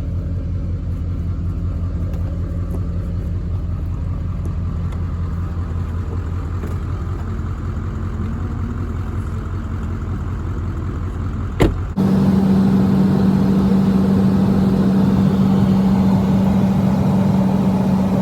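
Truck engine and road noise while driving, a steady low drone. About two-thirds of the way in there is a sharp click, then the sound changes abruptly to a louder steady drone with a prominent hum.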